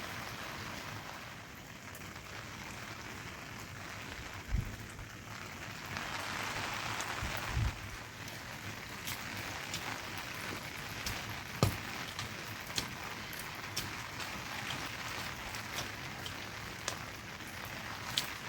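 Steady rain falling, with a few sharp, scattered drops or knocks standing out from the hiss.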